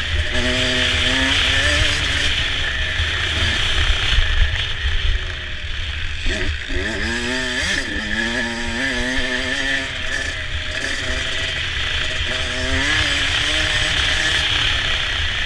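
Motocross dirt bike engine revving hard, its pitch climbing and dropping again and again, with quick swoops of the revs about six to eight seconds in, over a constant low rumble.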